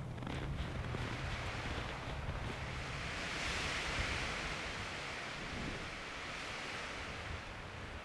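A gust of wind: a rushing hiss that swells to a peak about halfway through and dies away.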